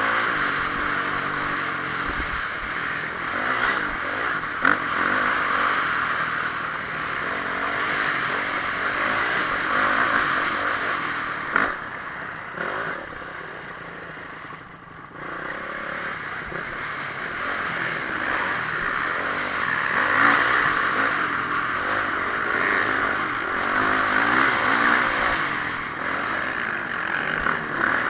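Honda CRF450R single-cylinder four-stroke motocross engine running hard under racing throttle, revving up and down continuously. A couple of sharp knocks and a brief quieter dip about halfway through break the steady engine noise.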